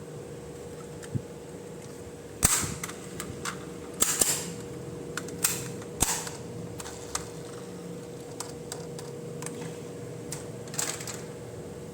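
Hard plastic toy pieces being handled, clicking and snapping several times, the loudest snaps about two and a half and four seconds in, over a faint steady hum.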